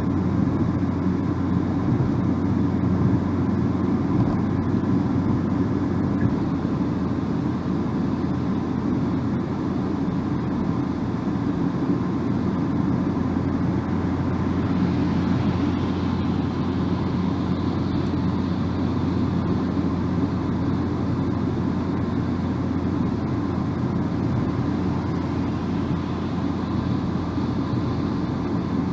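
Steady road and tyre noise with a low engine drone, heard inside a moving car's cabin.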